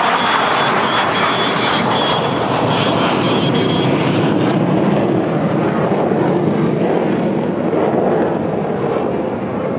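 Sukhoi fighter jet flying past overhead: a loud, steady jet rush whose pitch sinks lower as it passes.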